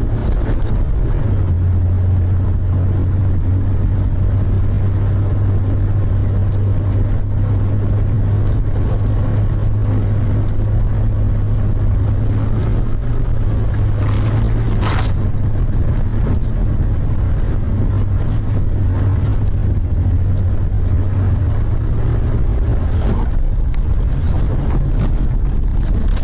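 Steady low drone of a car being driven, engine and road noise, with a brief hiss about fifteen seconds in.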